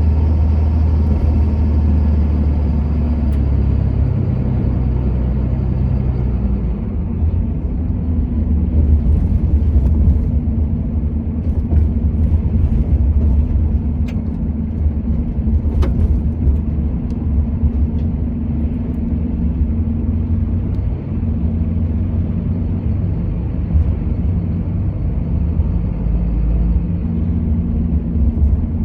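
A motor vehicle driving along: steady engine drone and low road rumble, with the engine note shifting about six seconds in.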